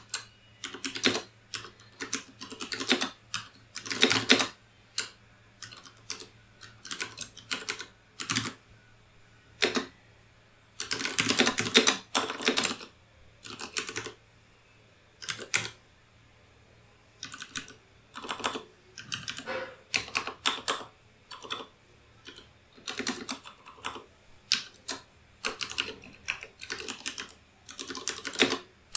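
Typing on a computer keyboard: bursts of rapid key clicks with short pauses between them, including one long fast run about halfway through.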